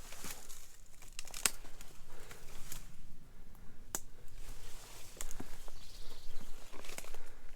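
Footsteps of someone walking, with a few sharp clicks at irregular intervals over a faint hiss.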